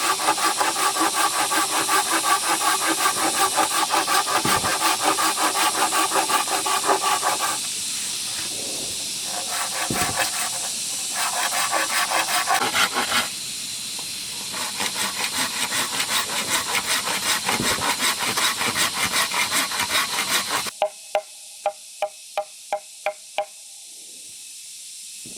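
Rapid rasping strokes of a blade cutting bamboo, in runs broken by two short pauses. Near the end come about eight sharp, ringing knocks on bamboo, about three a second.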